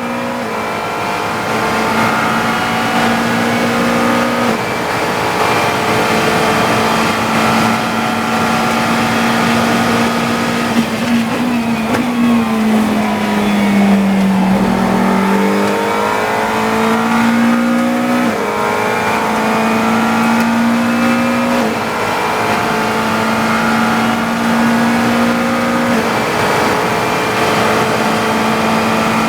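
GT3 race car engine running hard under sustained throttle, its pitch holding high and stepping with gearchanges every few seconds. About halfway through the pitch drops and climbs again as the car slows for a corner and accelerates out.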